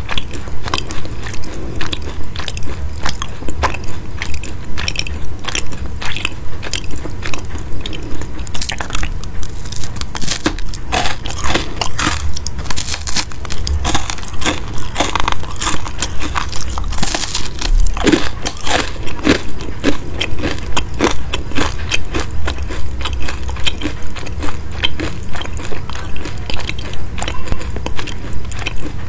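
Close-miked crunching and chewing of crisp, round glazed baked snacks, bitten off a piece at a time. The chewing is crackly and steady at about two chews a second.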